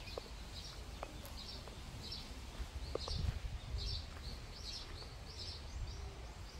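A bird calling over and over, short chirps repeating about every two-thirds of a second, over a low outdoor rumble.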